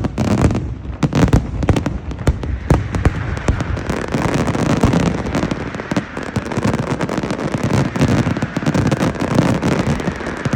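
Fireworks display: a dense, continuous barrage of bangs and crackles, with many shells going off every second and no letup.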